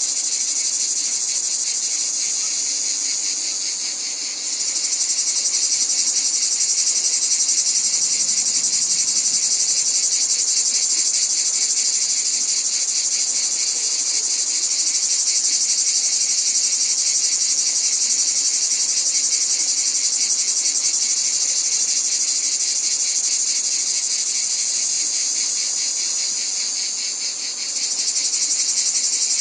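Dense chorus of insects trilling steadily at a high pitch, with a brief dip in loudness about four seconds in and again near the end.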